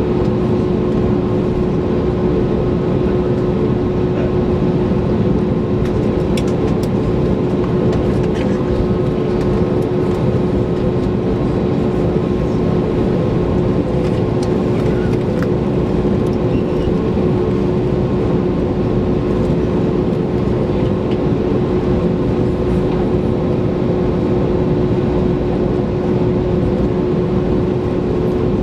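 Airbus A321neoLR engine and airflow noise heard inside the cabin near the wing: a steady rush with a constant hum tone running through it, without rising or falling.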